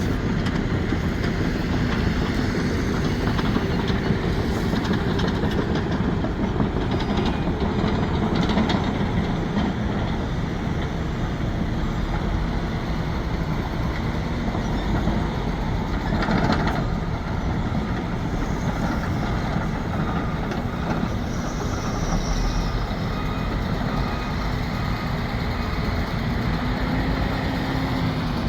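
Sumitomo SH370LHD-6 excavator's diesel engine running steadily with its hydraulics working, a few faint knocks along the way. The engine pitch rises briefly near the end.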